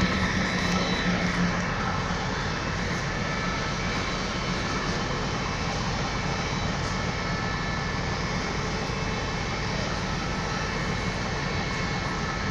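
Steady mechanical drone and rumble of a train, heard from aboard as it rolls slowly through a station yard.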